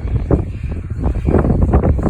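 Yamaha Phazer snowmobile engine running with uneven, pulsing revs, with wind noise on the microphone.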